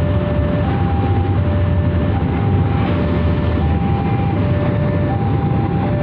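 Container freight train rolling past with a loud steady rumble, while a two-tone electronic warning alarm alternates high and low, changing about every three-quarters of a second.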